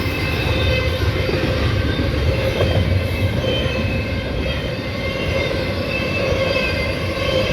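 BNSF double-stack freight train's cars rolling past: a steady, continuous rumble of wheels on rail with faint high tones riding over it.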